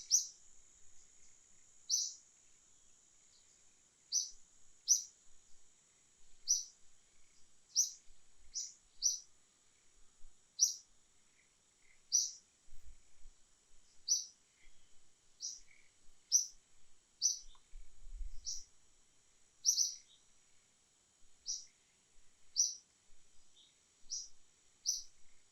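A bird chirping over and over, short sharp high calls every second or two, over a steady high-pitched drone of insects or background hiss.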